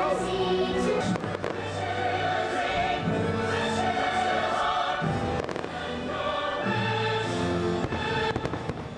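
Aerial fireworks shells bursting in several sharp bangs, a pair about a second in, more around five seconds in and near the end, over a loud show soundtrack of music with a choir singing.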